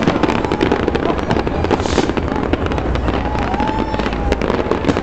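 Fireworks bursting in a dense, continuous crackle of pops and bangs, with a short rushing hiss about two seconds in.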